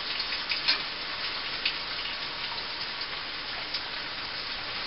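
Diced onions and green bell peppers sizzling in oil in a cast-iron skillet: a steady frying hiss with a few scattered pops and crackles.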